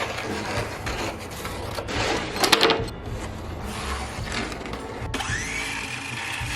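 Workshop noise from building a wooden door: rubbing and knocking, a sharp rattle of clicks about two and a half seconds in, then a power tool's motor spinning up to a steady whine about five seconds in.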